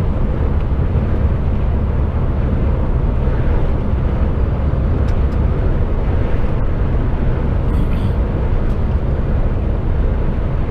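Steady low rumble of an HGV lorry heard from inside the cab: engine and road noise while driving.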